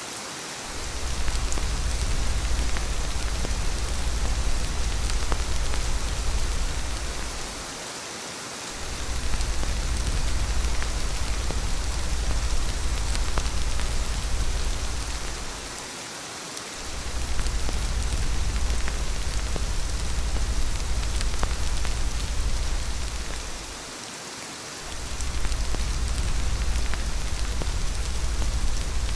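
Steady rain falling, over a deep low rumble that drops away for about a second roughly every eight seconds.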